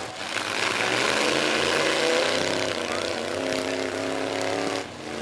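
Demolition derby truck engines running and revving in the arena, one engine's drone climbing slightly in pitch over a steady hiss of background noise.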